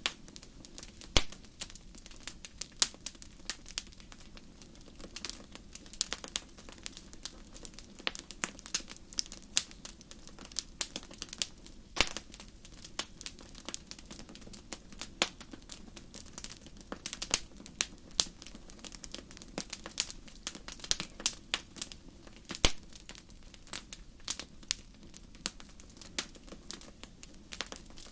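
Wood fire burning in a fireplace, crackling: irregular sharp pops and snaps, several a second at times, with a few louder snaps, over a steady low background.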